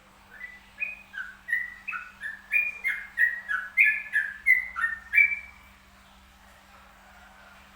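Zebra dove (perkutut) cooing: a rapid run of about fifteen short notes that step up and down in pitch, lasting about five seconds before it stops.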